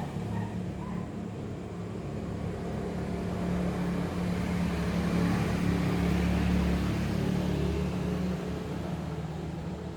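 A motor vehicle's engine running as a steady low hum, growing louder toward the middle and fading toward the end, as in a vehicle passing by.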